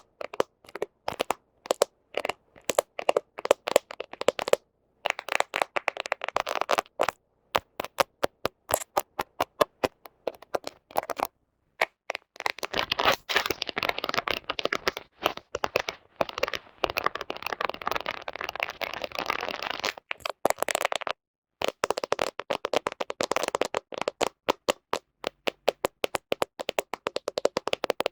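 Fingernails tapping and scratching on a camera: fast, uneven runs of sharp clicks with short pauses, thickening around the middle into several seconds of steady scratching.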